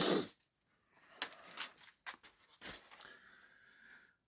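Scattered light clicks and rustling from products and packaging being handled while an order is packed.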